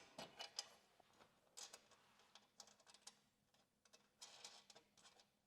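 Faint, irregular small clicks and light rattles of screws being handled and set by hand into the floorboard's holes.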